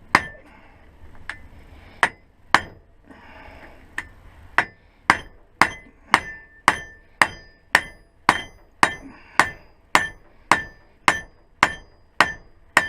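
Hammer blows on metal, knocking a part out through the front wheel hub: a few spaced strikes, then a steady beat of about two blows a second from about four seconds in, each with a short ring after it.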